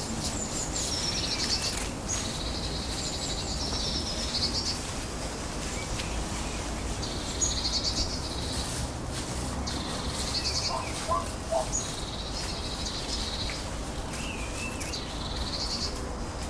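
A woodland songbird singing the same short, high, rapidly trilled phrase again and again, about six times, every two to three seconds, over a steady low background rumble.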